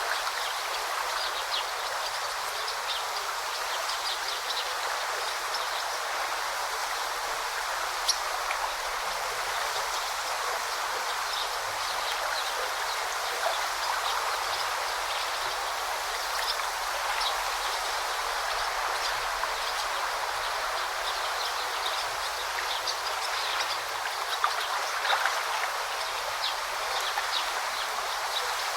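Forest stream flowing steadily, with short high bird chirps scattered throughout.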